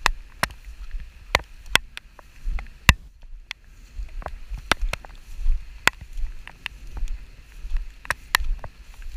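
Rain: irregular sharp taps of raindrops striking close to the microphone, about two or three a second, over a low wind rumble.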